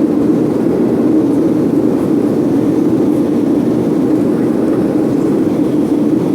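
Steady jet engine and airflow noise of a Boeing airliner taking off and climbing out, an even low rumble that does not change.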